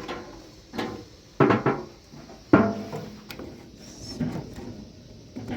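A series of knocks and clatters, as of objects being handled and set down, the loudest about two and a half seconds in with a short ringing after it.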